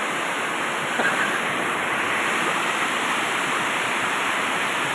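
Heavy rain pouring down in a steady, dense hiss of water.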